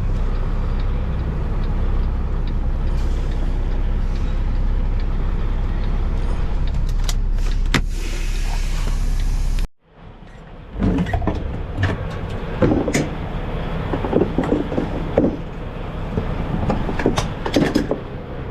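Semi truck's diesel engine running steadily at low speed during a slow reverse into a parking spot. About ten seconds in, the sound cuts out abruptly. Irregular metallic clanks and rattles with sharp knocks follow.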